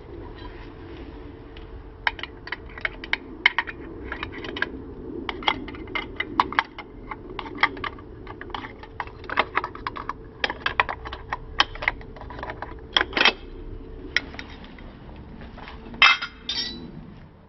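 Irregular metallic clinks and clicks of hand tools and loose metal parts being handled, in clusters, with a louder clatter near the end, over a steady faint hum.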